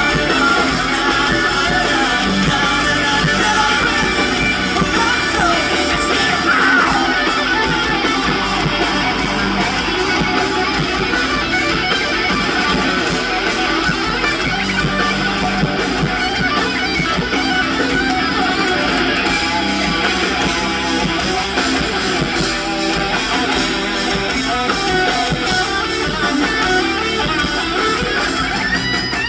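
Live rock band music led by guitars.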